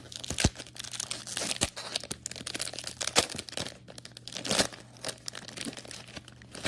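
A Topps jumbo basketball-card pack wrapper being torn open and crinkled: a run of irregular crackling rips, loudest about a second and a half, three, and four and a half seconds in.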